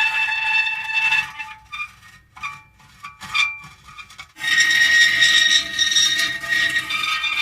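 Metal creaking: long, drawn-out squeals at a steady high pitch. About a second and a half in they break into a quieter stretch of short, scattered creaks, and a sustained squeal starts again just after the middle.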